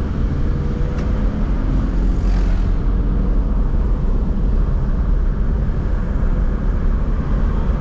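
Isuzu D-Max pickup truck driving along, its engine running with a steady low rumble under road and wind noise, and a brief swell of hiss about two seconds in.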